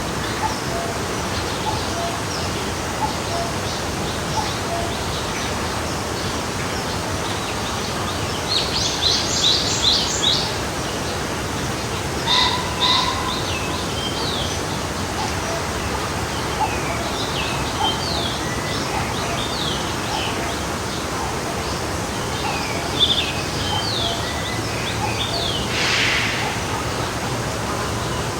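A stream flowing steadily, with small birds chirping over it: quick runs of high notes about nine seconds in and again around twelve seconds, then scattered calls.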